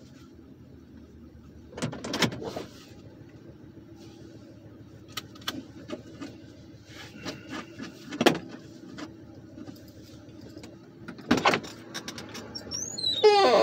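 Police Interceptor's 4.6-litre V8 idling, heard from inside the car, with a few short knocks and rustles and a brief squeaky sliding sound near the end.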